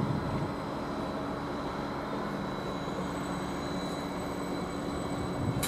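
Class 755 bi-mode multiple unit running slowly, a steady mechanical hum from its diesel power pack with a faint high whine over it. A short sharp click comes near the end.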